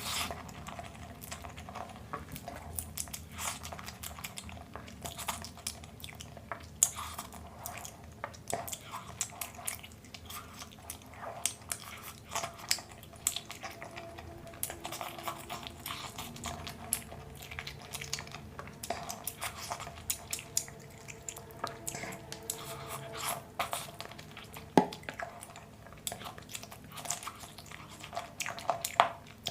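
Close-miked eating: a person biting and chewing food, with many short, irregular wet clicks and smacks of the mouth throughout and an occasional louder click.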